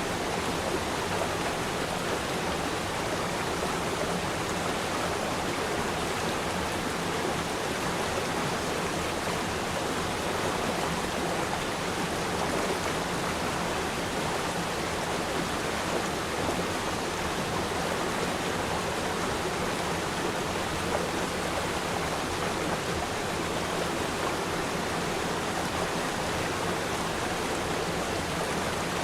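Shallow river stream flowing steadily: a continuous rushing and babbling of water with no breaks or distinct events.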